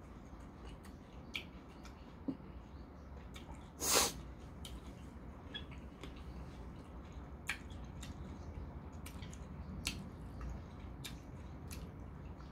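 A person chewing food close to the microphone, with scattered soft wet mouth clicks and one short, louder breathy noise about four seconds in.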